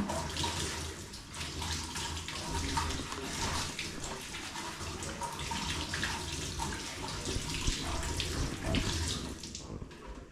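Water running from a tap, with small clinks of a utensil being rinsed under it. It stops shortly before the end.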